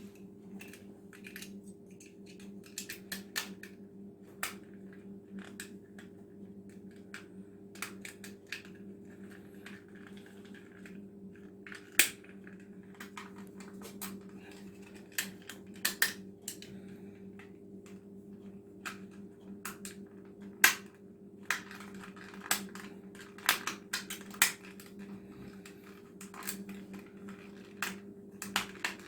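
Plastic housing parts of a Braun Silk-épil epilator clicking and snapping as the device is put back together: irregular small clicks with a few sharper, louder snaps, over a steady low hum.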